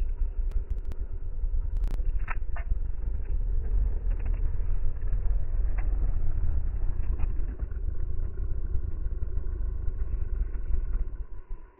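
Motorcycle on the move, a steady low rumble, with a few short knocks about two seconds in.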